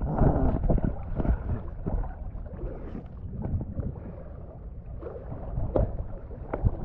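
Wind rumbling on the microphone, with scattered light knocks.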